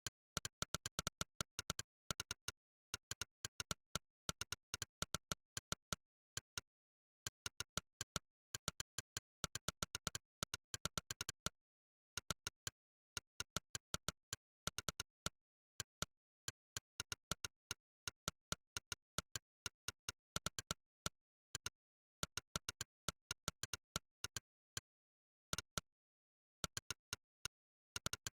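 Monkeytype's synthesized 'click' keypress sound, one short click per keystroke, coming in quick irregular runs with short pauses between them as someone types.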